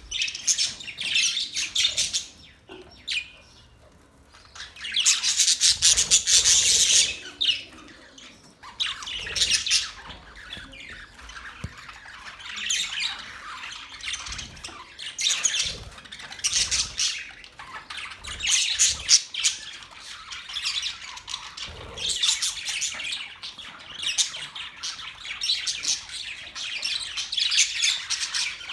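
Budgerigars chattering and warbling: rapid high squawks and chirps in bursts with short pauses, the loudest burst about five to seven seconds in.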